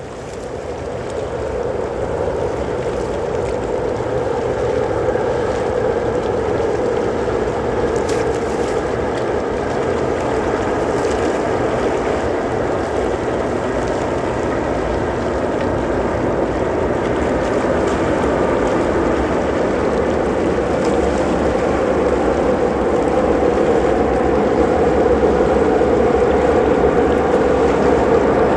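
A train running across the steel-truss railway deck of the North Bisan-Seto suspension bridge: a loud, steady rumble with a droning hum. It builds up over the first couple of seconds and swells a little near the end.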